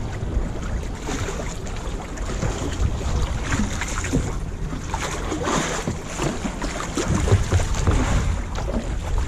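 Lake water splashing and lapping around a kayak and its paddle, with wind buffeting the microphone in a steady low rumble. Brighter splashes come and go irregularly, strongest about a third of the way in and past the middle.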